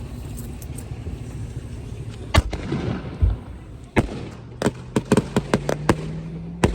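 Consumer fireworks cake (multi-shot repeater) firing: a single bang about two and a half seconds in, another near four seconds, then a quick, uneven string of bangs to the end.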